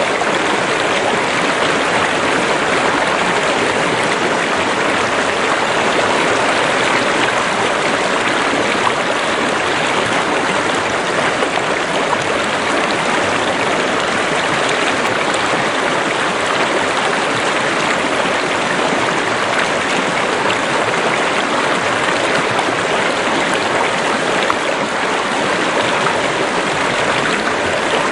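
Stream of running water rushing and splashing steadily, without let-up.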